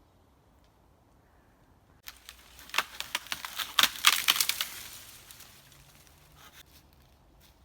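Dry twigs and leaves crunching and snapping: a burst of crackling that starts about two seconds in, is loudest in the middle and fades out by about six seconds.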